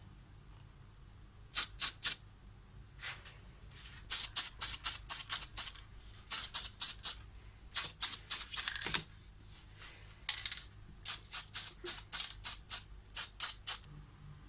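Aerosol spray paint can being shaken, its mixing ball rattling in quick strokes of about four a second, in several runs with short pauses between.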